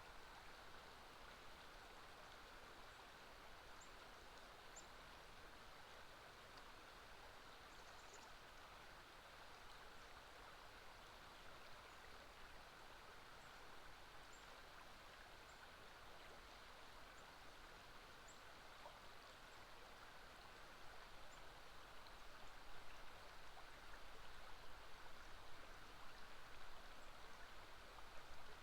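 Faint, steady rushing of flowing river water, with a few brief high chirps of small birds scattered through it.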